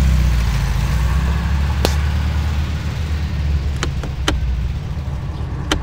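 Classic Volkswagen Beetle's air-cooled flat-four engine running with a steady low hum, with a few sharp clicks.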